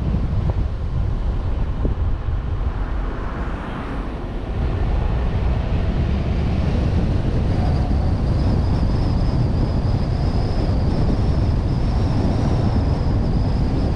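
Wind rushing over a suction-cup-mounted action camera on a moving vehicle, with a steady low rumble of road and drive noise. A faint high whine comes in about halfway and holds.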